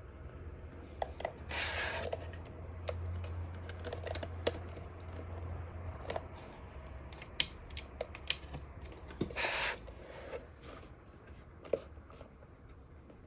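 Scattered small plastic clicks and two short rustles from handling a small device, over a low steady hum that stops about six seconds in.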